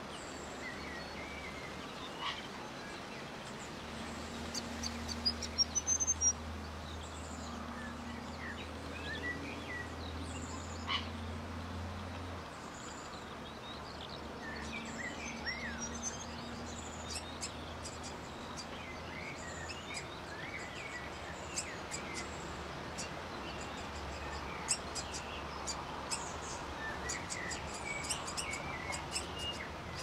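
Small birds chirping in short, scattered calls over a steady background hiss, with a low hum in the first half that stops about twelve seconds in.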